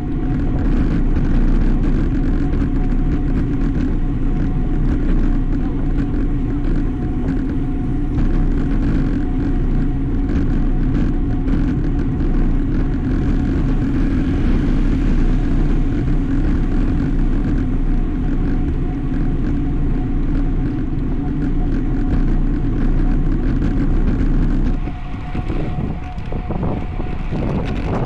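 Steady rush of wind on the microphone and road noise from a road bicycle ridden at speed, with a steady hum underneath; it eases a little near the end.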